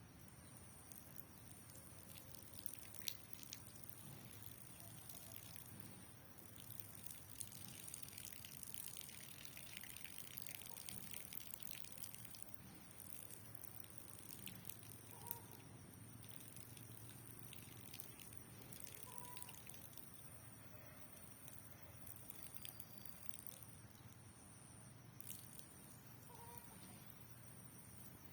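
Faint dripping and trickling of rainwater, with a few sharp clicks scattered through it.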